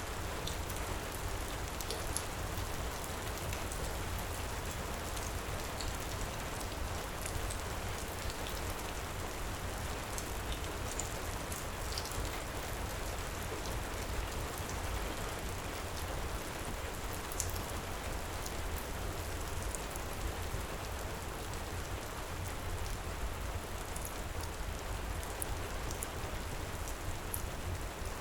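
Heavy rain pouring steadily, with a deep low rumble underneath and scattered small high crackles of a wood fire.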